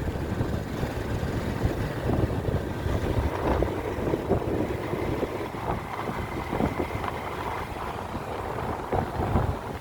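Wind buffeting the microphone on a moving motorcycle, a gusty low rumble, with the motorcycle's engine and road noise underneath.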